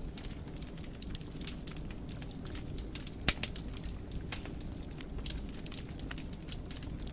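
Fire in a fireplace crackling: frequent sharp pops and snaps over a low steady rumble, with one louder pop about three seconds in.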